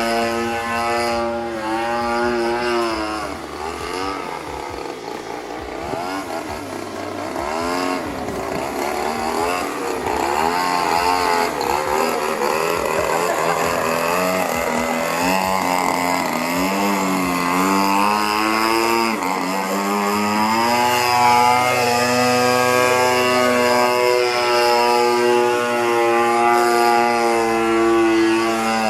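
26cc gasoline two-stroke engine of a radio-controlled aerobatic airplane running in flight. Its pitch holds steady at first, rises and falls repeatedly through the middle, then holds steady near the end.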